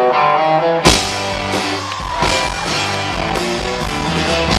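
Live rock band playing: a few picked electric guitar notes, then the full band with drums and bass comes in with a hit about a second in and plays on steadily.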